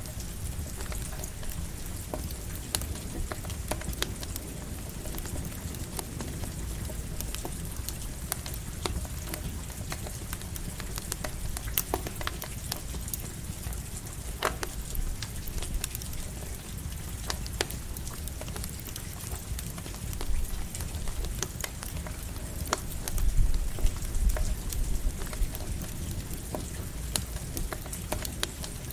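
Campfire crackling under steady light rain, with sharp pops and ticks scattered throughout. A low rumble of thunder swells about two-thirds of the way in.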